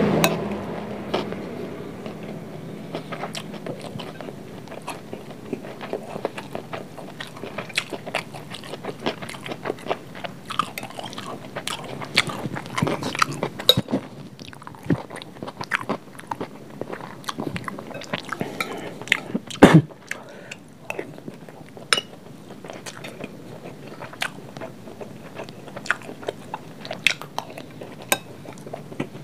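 Close-miked chewing of nasi goreng (fried rice), with scattered sharp clicks and scrapes of a metal spoon on a glass plate; the sharpest click comes about twenty seconds in.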